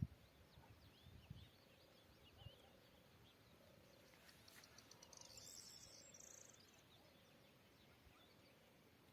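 Faint outdoor ambience with distant birds chirping, and a short high trill about five to six seconds in.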